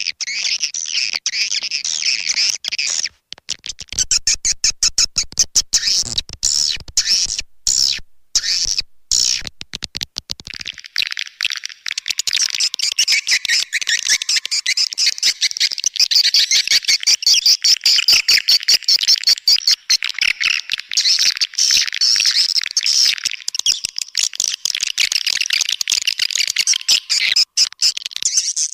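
Swiftlet lure-call recording: a dense, high twittering of swiftlet chirps, broken into separate rapid chirps for several seconds before running continuously again. This is the call sound played to attract swiftlets to roost and nest in a swiftlet house.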